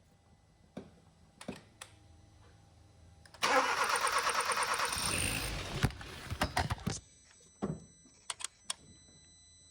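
Starter cranking the freshly rebuilt 1.6 turbo G4FJ engine of a 2012 Hyundai Veloster for about three and a half seconds, with the fuel system now live; the engine seems to catch briefly before it is switched off. A few sharp clicks come before and after.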